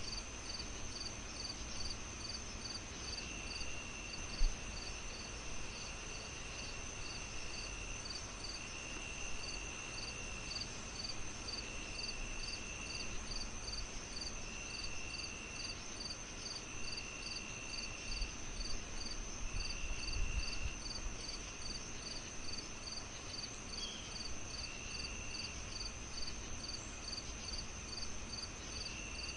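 Crickets and other insects chirping in a night chorus. One voice chirps evenly about twice a second, over a constant high trill, while another trills in phrases of a second or two that repeat every couple of seconds. Under them runs a steady hiss, broken by a single low pop about four seconds in.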